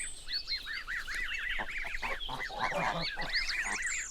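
Goslings peeping: many short, high calls that rise and fall, several a second and overlapping, with a few lower, fuller calls mixed in.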